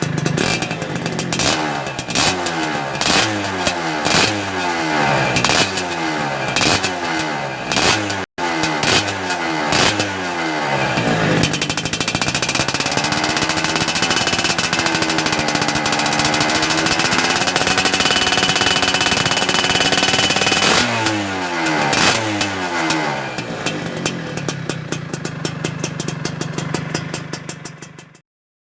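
Yamaha F1ZR's 110 cc two-stroke single-cylinder engine running through an AHM aftermarket exhaust, blipped in quick rev after rev, about one a second, then held high for around ten seconds with the pitch wavering. A few more blips follow, it drops back to idle, and it cuts off suddenly near the end.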